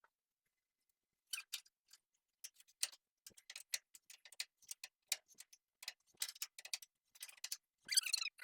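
Faint hand ratchet clicking in short, irregular runs while bolts are tightened to secure the bed to the truck frame. The clicks start about a second in and come closer together near the end.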